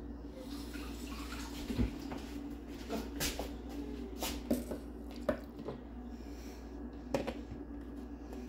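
Light knocks and clinks from a mixer-grinder jar and lid being handled while the motor is stopped between grinding runs. About seven short taps are spread irregularly over a low steady hum.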